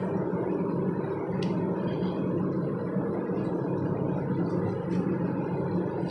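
Steady low drone of a running vehicle, with a few faint clicks.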